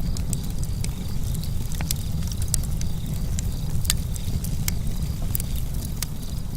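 Wood fire burning: a steady low rumble of the flames, with scattered sharp crackles and pops from the burning wood. Crickets chirp faintly and steadily behind it.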